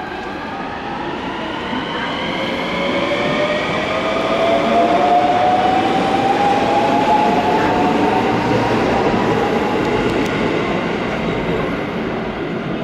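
Electric train pulling out of the station: its traction motors give a whine of several tones that rises slowly in pitch as it speeds up, over the rumble of the wheels, growing louder toward the middle and easing off near the end.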